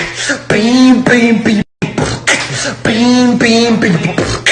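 A voice singing or chanting the same short vocal phrase over and over, about once every two seconds, with a momentary dropout in the sound near the middle.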